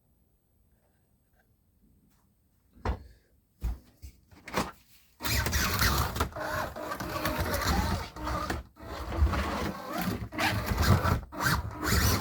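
A few knocks as a Scalextric slot car is set down on the plastic track, then from about five seconds in the car runs: its small electric motor whining and the car rattling along the track, swelling and dipping as the throttle is worked.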